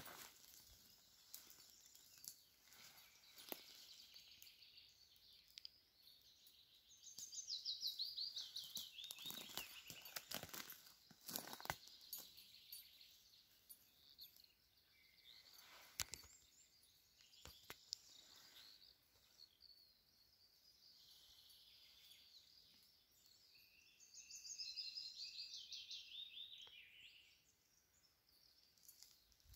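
Quiet woodland with a songbird singing two phrases of rapid repeated high notes, one about seven seconds in and another about twenty-four seconds in. Scattered faint clicks and rustles come in between.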